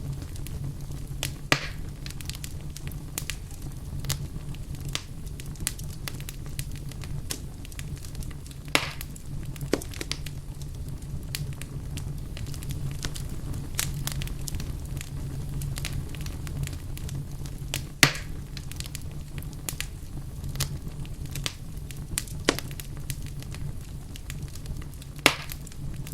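Wood fire crackling in a fireplace: a steady low rumble of flame under a constant scatter of small crackles, with a few louder pops from the burning logs.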